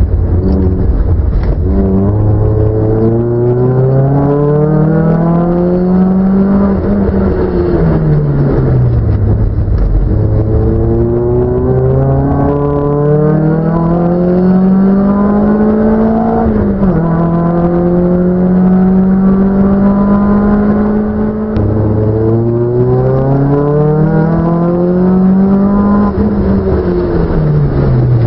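A racing car's engine driven hard: it revs up steadily through the gears, its pitch dropping sharply at an upshift about 17 s in. It falls away several times as the car slows for corners, then climbs again.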